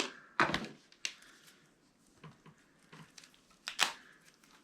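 Hands handling plastic 3D-printer parts and cabling: four sharp plastic clicks and knocks, three close together at the start and one near the end, with light rustling between.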